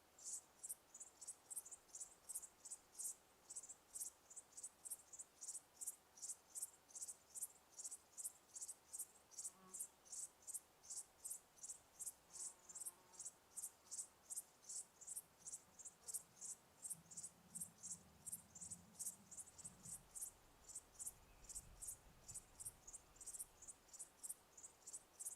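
Faint cricket chirping: a steady, even run of high-pitched chirps, about two to three a second. A faint low rumble passes underneath for a few seconds past the middle.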